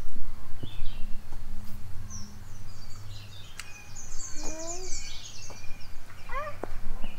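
Birds chirping and calling, with bursts of quick high chirps in the middle and a few short gliding calls near the end, over a steady low rumble.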